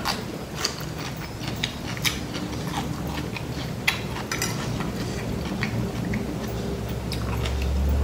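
Close-up eating sounds: chewing and biting on a mouthful of food, with irregular sharp clicks of a metal fork against the plate. A low steady hum swells in near the end.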